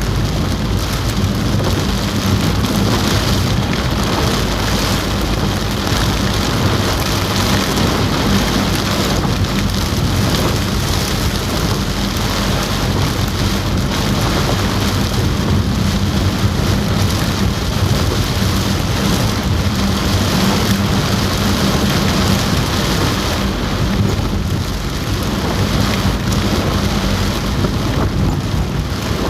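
Heavy rain drumming on a car roof, heard from inside the car as a dense, steady patter, with a low steady hum underneath.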